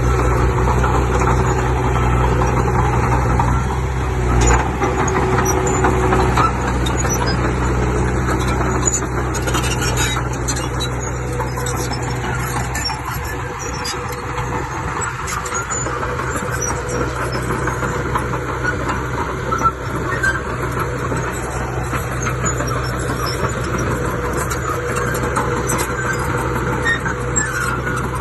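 Heavy earthmoving machine's diesel engine running steadily under load, its low drone easing a little about halfway.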